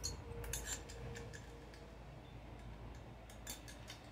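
Light, irregular metallic clicks and taps of a hand tool working the cylinder head screws loose on a small two-stroke engine.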